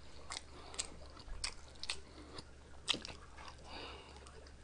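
A person chewing and biting into fried chicken: soft, irregular mouth clicks and smacks.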